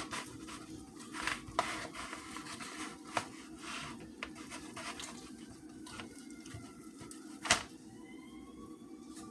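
Knife cutting pieces off a rotisserie chicken: scattered clicks and scrapes, a few sharper knocks among them, over a steady low hum.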